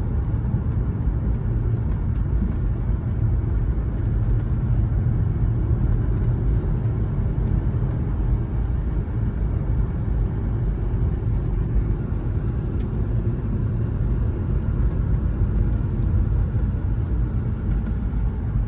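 2004 Audi S4's 4.2-litre V8 and road rumble while driving steadily, the engine not yet at full operating temperature. A low, even rumble with no sharp changes.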